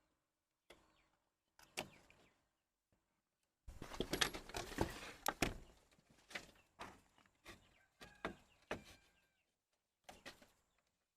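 Objects being handled: scattered knocks and clatter, with a dense stretch of rustling and scraping starting a little under four seconds in.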